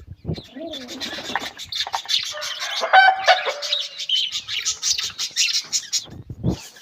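Domestic birds calling, many at once, in dense short chirps and clicks with a few lower gliding calls near the start; the flock is kept pigeons.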